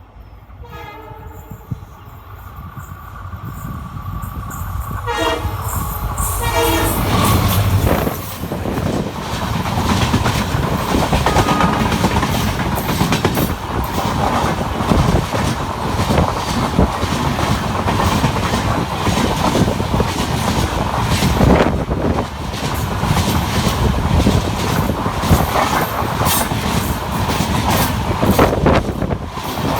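A WDP-4 diesel-electric locomotive sounds its horn twice as it approaches, getting louder, then passes with the coaches running by in a steady rumble and rhythmic wheel clatter over the rail joints.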